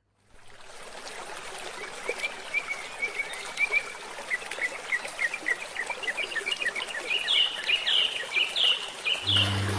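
Wild birds chirping in quick series of short calls over a steady hiss of running water. The chirps grow louder, with sharper downward notes in the last few seconds. A low steady tone comes in just before the end.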